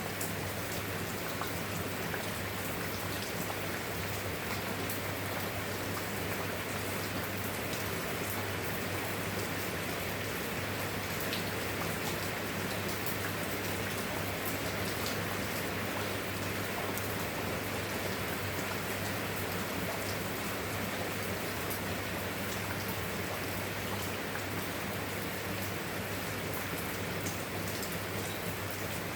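Steady rain falling, with scattered fine drop ticks over an even hiss and a steady low hum underneath.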